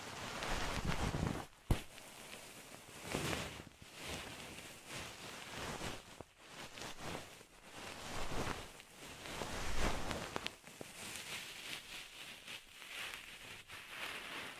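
Close-miked rustling, swelling and fading in uneven strokes about once a second, with a few sharp clicks.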